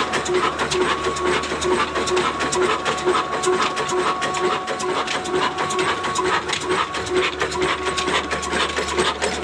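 Ruston diesel engine running steadily, with an even beat of about three pulses a second.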